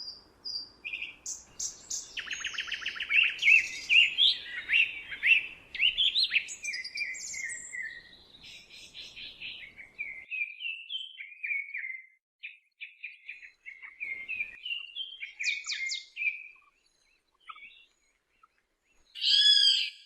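Songbirds singing: quick chirps and trills, busiest in the first half and then thinning to scattered notes. Near the end comes one short, loud call.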